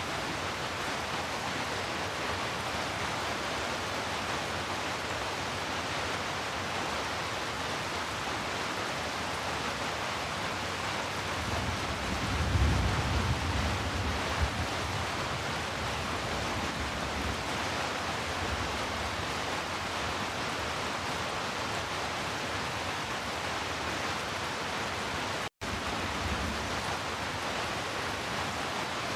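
Heavy rain falling with a steady, even hiss. A low rumble swells for a few seconds around the middle, and the sound cuts out for a split second near the end.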